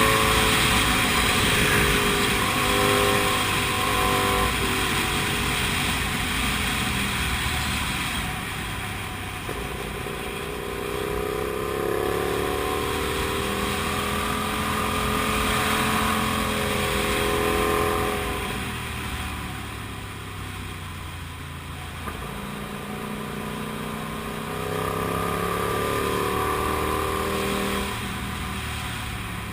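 Comet GTR250 motorcycle's V-twin engine under way, its pitch repeatedly rising and falling as the rider opens and closes the throttle. A broad rush, like wind noise, sits over it for the first eight seconds or so.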